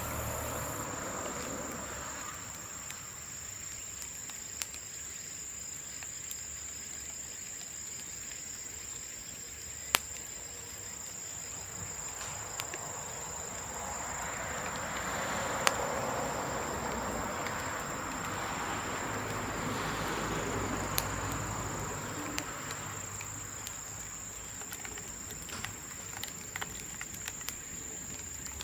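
Bamboo bonfire with a few sharp pops spread through, over a steady high-pitched insect chirr like crickets. A rushing noise swells and fades again around the middle.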